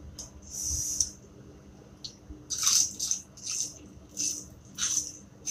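Mouth noises of a person eating rice and sambal by hand: five short hissy sounds, one near the start and four more, about one every half to one second, from halfway through.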